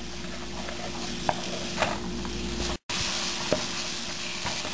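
Onion-tomato spice masala sizzling in oil in a nonstick frying pan while a wooden spatula stirs and scrapes it, with a few light taps of the spatula on the pan. This is the stage where the spices fry down until the oil separates. The sound breaks off for a moment about three seconds in.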